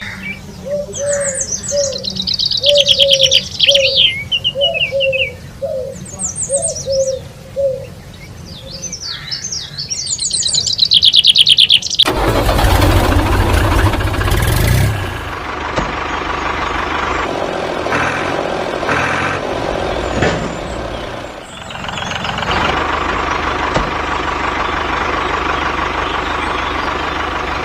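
Birds chirping in quick rising and falling calls, then about twelve seconds in a small engine, that of a DIY mini tractor, starts with a loud burst and keeps running steadily.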